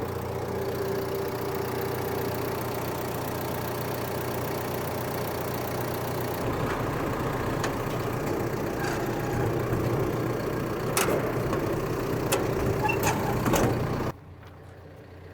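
John Deere 310SK backhoe loader's four-cylinder diesel engine idling steadily just after starting, running smoothly. About six seconds in the engine's low note changes, a few sharp clicks sound near the end, and the sound then drops off suddenly.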